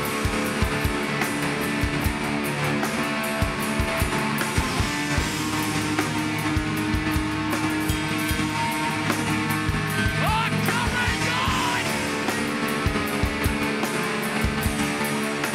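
Live hardcore punk band playing loud and fast: distorted electric guitars, bass and pounding drums, with shouted vocals.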